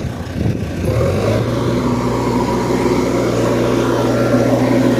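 Tractor engine running steadily, coming up to an even, constant speed about a second in.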